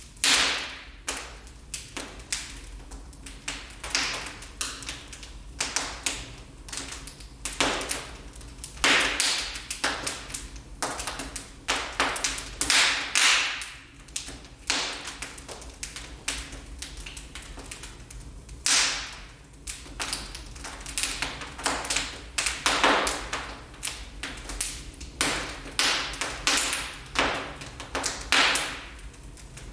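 Wood fire burning in a fireplace, crackling: irregular sharp pops and snaps, a few much louder than the rest.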